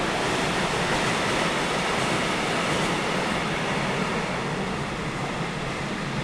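A train running past on the track: a steady noise that eases slightly after about three seconds.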